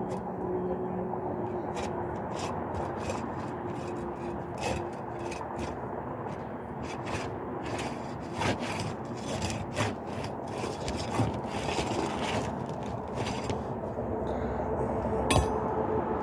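Pry bar scraping and clicking under roof shingles as they are worked loose, in irregular strokes.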